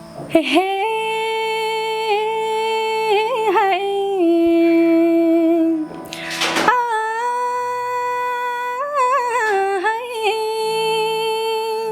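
A woman's voice singing two long wordless held notes in Nepali folk style, each wavering and gliding at its end, over a steady backing drone; there is a short break between the notes about six seconds in.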